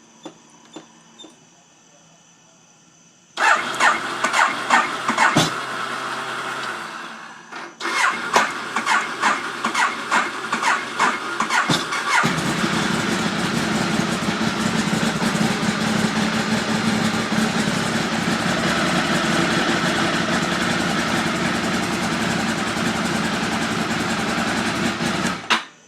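Ducati 848 L-twin engine being cranked on the electric starter without catching, first for about three seconds and then again for about four seconds, before it fires about twelve seconds in. It then runs steadily until it is shut off just before the end. The long cranking is the hard-start fault the owner is trying to solve.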